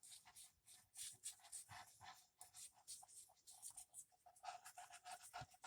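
Glue being rubbed onto paper with quick back-and-forth scratchy strokes, about three or four a second, faint throughout.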